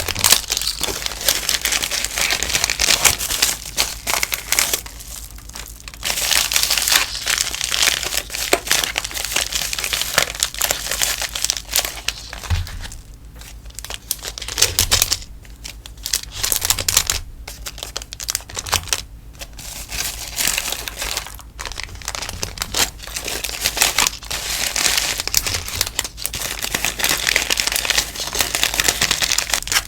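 Stickers and their packaging being handled and wrapped by hand, crinkling and rustling in close, irregular bursts with short pauses between.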